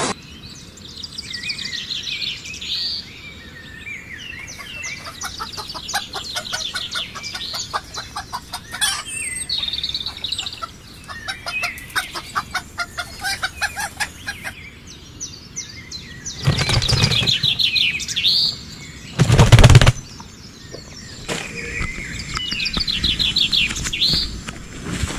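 Birds chirping in rapid trills throughout, with two loud bursts of a bird's wings flapping a little past halfway, each lasting about a second and a half.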